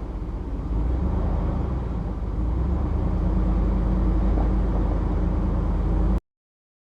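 Truck driving: steady low engine and road rumble that gets louder in two steps, then cuts off abruptly about six seconds in.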